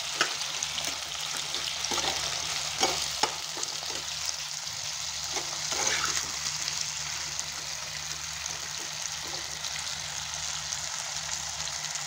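Potato wedges frying in hot mustard oil in a pan, a steady sizzling hiss, with a few sharp clicks in the first half.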